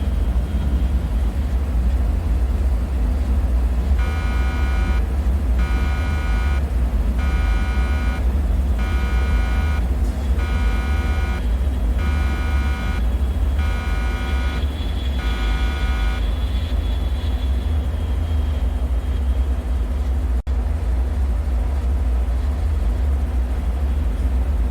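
Deep steady rumbling drone of a bunker ambience. From about four seconds in, a pulsing alarm-like tone sounds about eight times, roughly once every second and a half, then stops. The drone cuts out for an instant later on.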